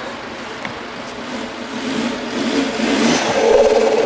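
Off-road 4x4's engine revving under load as it climbs a steep dirt slope, growing louder through the second half.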